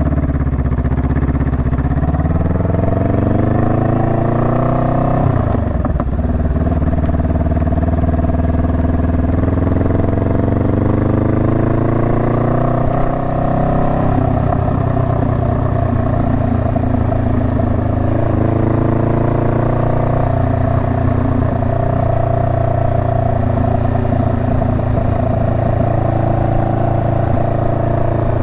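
Honda Rebel 500's parallel-twin engine pulling under acceleration, its pitch climbing, dropping sharply at a gear change about five seconds in, climbing again, then running fairly steadily at cruising speed.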